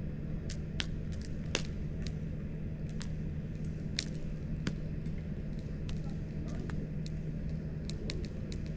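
Wood campfire crackling, with irregular sharp pops and snaps, about one or two a second, over a steady low rumble.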